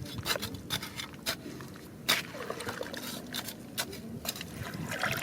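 Water trickling and sloshing with many sharp clicks of stones knocking together, the loudest about two seconds in.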